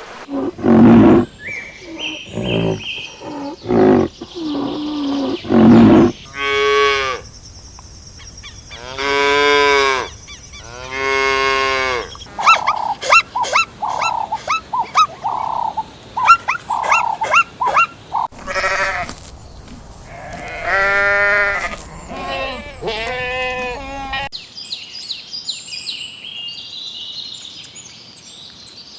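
A run of different farm animal calls one after another: short low calls in the first few seconds, three long drawn-out calls rich in overtones, quick repeated higher calls, and high chirping in the last few seconds.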